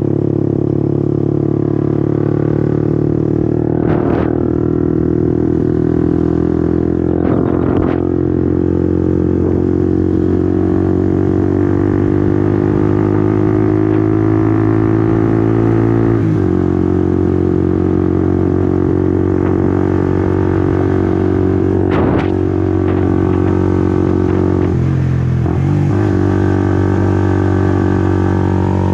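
Honda CBR150R's single-cylinder four-stroke engine running steadily while riding. The note holds a fairly even pitch and is broken briefly by several short dips.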